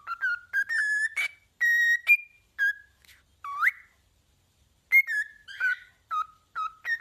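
A bird whistling a run of short, clear notes, some sliding up or down in pitch, with a gap of about a second midway.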